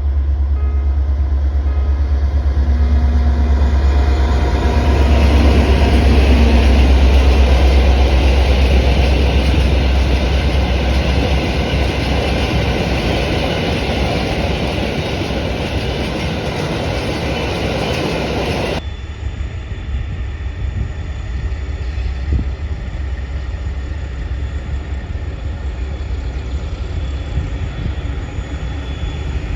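A train passing close by: a deep, steady rumble with rushing wheel and carriage noise that builds up, then cuts off suddenly about two thirds of the way through, leaving quieter train noise.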